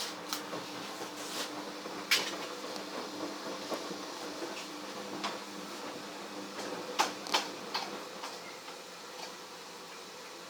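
A handful of sharp clicks and knocks, the loudest about two seconds in and a close pair around seven seconds, over a faint steady hum.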